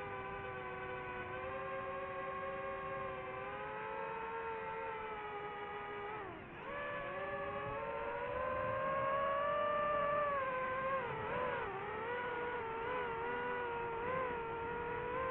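DJI FPV drone's motors and propellers whining, a steady pitched hum whose pitch dips sharply about halfway through and climbs back, then wavers up and down with the throttle.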